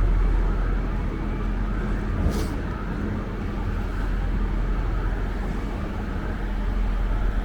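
City street traffic with a steady low engine rumble and a faint siren wailing in the distance. There is a brief hiss about two seconds in.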